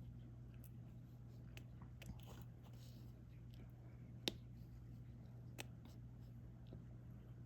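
Scattered small clicks and taps of a diamond painting drill pen pressing resin drills onto the sticky canvas, about five in all with the sharpest about four seconds in, and a brief soft rustle in between, over a faint low steady hum.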